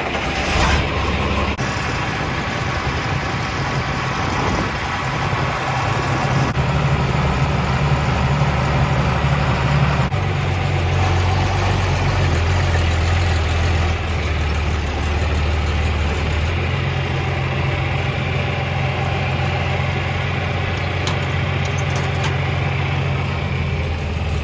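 Vintage John Deere 4000 tractor's engine running as the tractor is driven. Its note drops a step about ten seconds in and rises again about sixteen seconds in.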